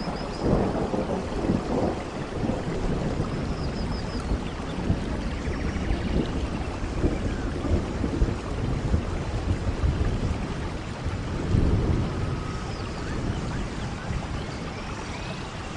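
Steady rain with rolling thunder, rumbling swells coming about half a second in and again near twelve seconds.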